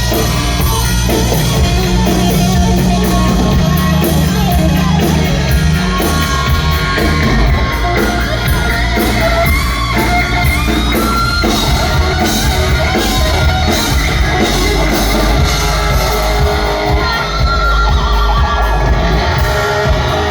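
Hard rock band playing live and loud, with electric guitar, bass and drums under a singer's voice.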